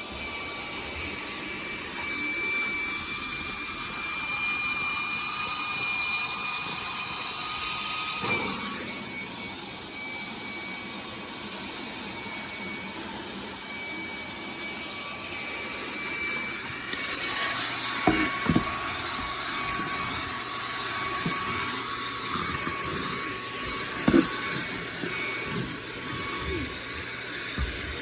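Cordless handheld vacuum cleaner's brushless motor running with a steady high whine. The whine changes about eight seconds in, and later the sound turns noisier with a few sharp knocks.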